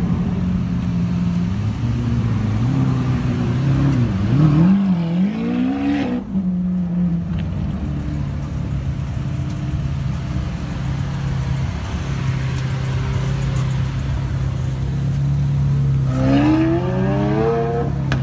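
Supercar engines running and revving as the cars pull away from the curb. A few seconds in, the engine note swings up and down in pitch. Through the middle the engine runs at a steady note, and near the end a rising rev comes in.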